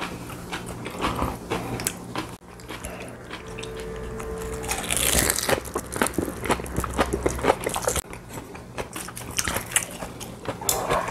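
Crisp crunching and chewing of a raw napa cabbage leaf wrapped around kimchi. Quick crackles run throughout, with a louder crunchy bite about five seconds in.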